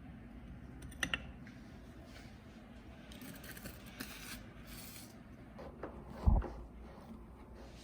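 Small handling noises in a small room: a sharp click about a second in, a few brief rustles, and a dull thump near the end that is the loudest sound.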